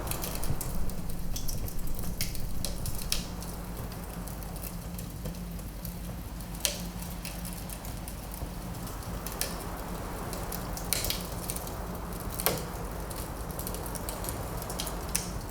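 Wood fire in a fireplace crackling, with irregular sharp pops, two louder ones about a third and four-fifths of the way in, over a steady low rumble and wind blowing in the background.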